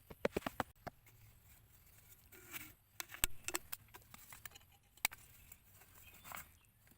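Sharp knocks and taps: a quick run of them in the first second, another cluster around three seconds in, and one single knock about five seconds in.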